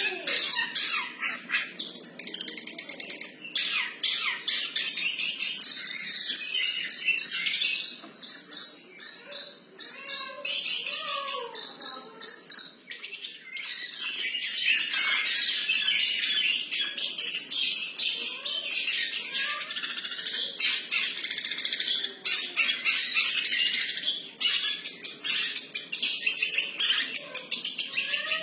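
Long-tailed shrike (cendet) singing a continuous, varied 'freestyle' song of rapid chirps, trills and chatter, a little softer between about eight and fourteen seconds in.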